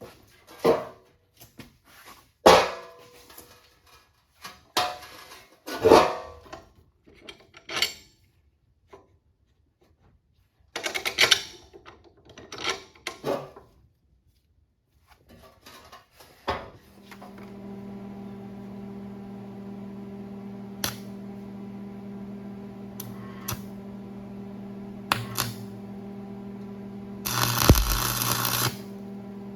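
Metal parts clanking and knocking, a series of separate sharp strikes. About halfway through, a steady mechanical hum starts and runs on, and near the end a loud noisy burst lasts just over a second.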